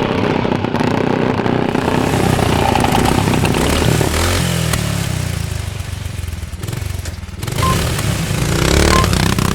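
Engines of vintage motorcycles of up to 350cc running and revving, the engine note rising and falling around the middle and again near the end. Three short high beeps sound near the end.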